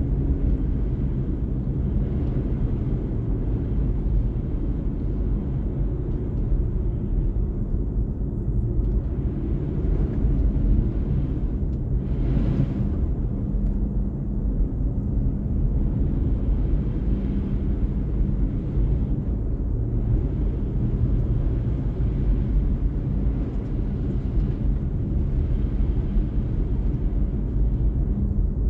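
Steady low rumble of a car driving: engine hum and road noise from the tyres, with a brief swelling hiss about twelve seconds in.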